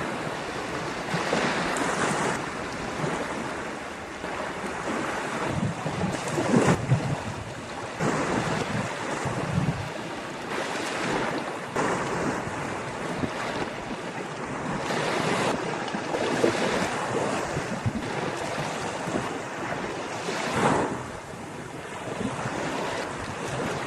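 Ocean waves breaking and washing on a beach, in surges every few seconds, with wind buffeting the microphone.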